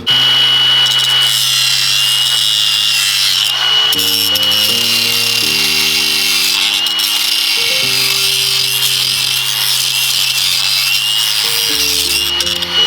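Handheld power grinder running steadily with a high whine that wavers slightly under load, over background music with slow chord changes.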